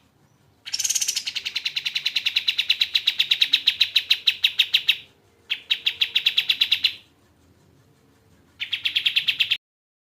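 Kapas tembak bird singing a fast trill of rapidly repeated notes, about ten a second, in three bouts: a long one of about four seconds, a shorter one, and a brief one near the end.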